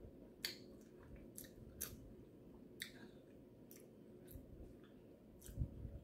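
Close-miked chewing of a seasoned boiled egg, with scattered wet mouth clicks and smacks about once a second and a soft low thump near the end.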